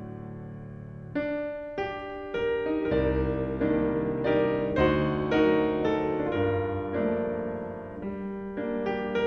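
Piano music: a held chord fades away, then from about a second in notes are struck one after another, roughly every half second, in a gentle melody over sustained low notes.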